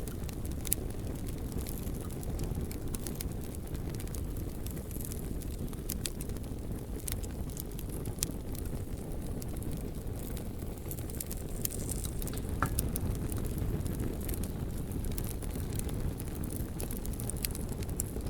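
Campfire crackling, with sharp pops scattered irregularly over a steady low rumble. Near the middle there is a brief faint whistle.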